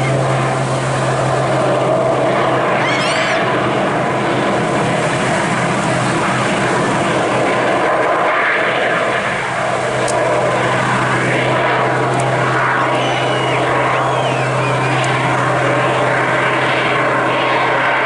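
Propeller aircraft engine droning steadily at an aerobatic display.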